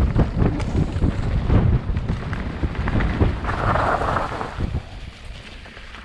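Wind buffeting the microphone of a moving camera: a loud low rumble with many short knocks and rattles, easing off about five seconds in.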